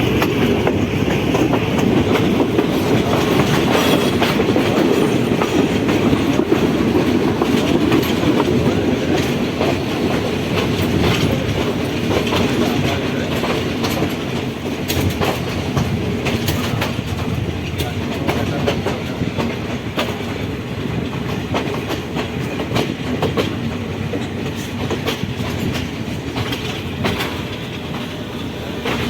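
Train running along the track: a steady rumble with the wheels clicking over the rail joints, the rumble easing gradually in the second half.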